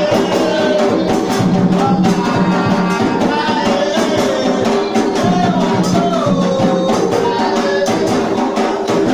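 Group singing a ritual chant for the orixá Xangô over steady drumming and percussion.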